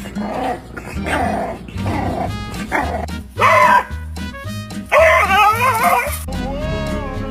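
A dog barking and calling over background music, with two louder, higher calls that waver in pitch about three and a half and five seconds in.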